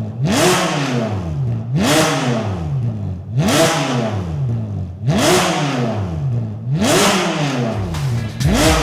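Ferrari California V8 with a Capristo aftermarket exhaust being blipped repeatedly at standstill. About six quick revs come roughly every one and a half seconds, each rising sharply and falling back more slowly towards idle.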